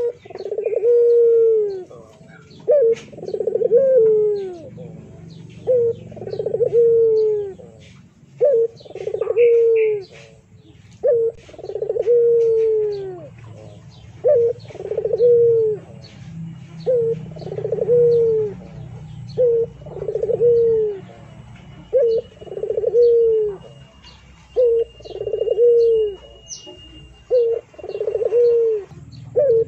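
A bird cooing over and over, each call a short note and then a longer note falling in pitch, repeated about every two and a half seconds. Faint high chirps sound between the calls.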